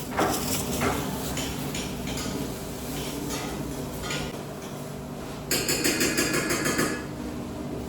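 Clicks and knocks of things being handled over a steady machine hum. About five and a half seconds in, a louder rapid rattling clatter lasts about a second and a half.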